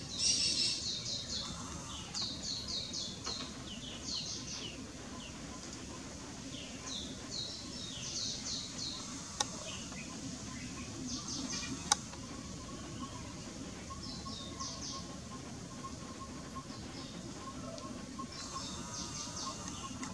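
Birds chirping in short runs of quick high notes, repeated throughout over a steady outdoor hiss, with two sharp clicks a couple of seconds apart near the middle.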